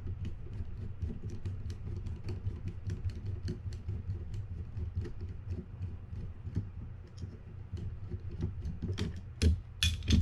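Small screwdriver undoing the bail arm screw on a Fin-Nor Offshore 4500 spinning reel: a long run of light metal clicks and ticks, with a few louder clacks near the end, over a steady low hum.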